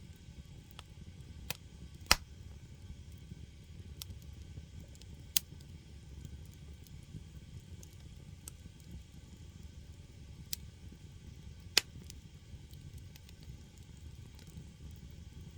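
Firewood burning in a traditional Korean agungi firebox: a low steady rumble of the fire with a handful of sharp pops and crackles from the logs, the loudest about two seconds in and another near twelve seconds.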